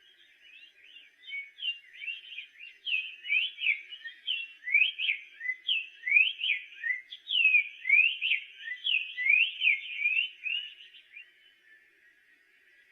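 Black-faced tanager (sanhaço-de-coleira) singing one long, fast song of slurred whistled notes that sweep up and down, starting softly about a second in, growing louder, and fading out near the end.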